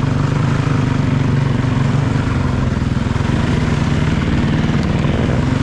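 Off-road vehicle engine running steadily under way, holding a fairly even pitch, with wind and road noise over it.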